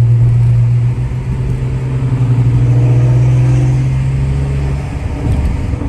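Big-turbo car's engine and exhaust under way: a loud, steady low drone with faint rising tones in the middle as it pulls, turning into a choppy, uneven rumble near the end.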